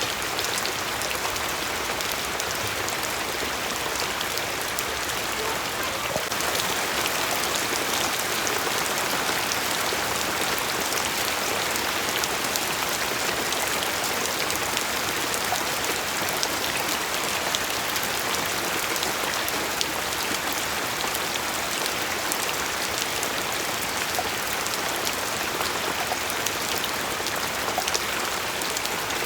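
Steady rain falling, a dense even hiss with the fine ticks of many drops hitting a surface.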